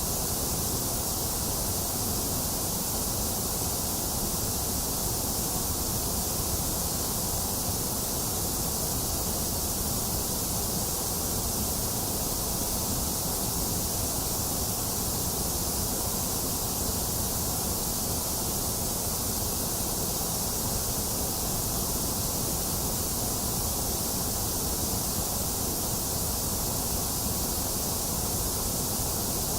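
Box fan running steadily mixed with steady rain: an even, unbroken hiss with a low rumble underneath.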